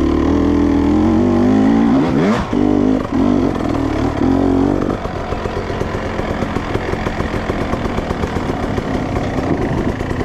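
Dirt bike engine running under throttle. Its revs drop sharply and climb back about two seconds in, rise and fall a few times, then settle into a lower, choppy low-throttle beat from about halfway.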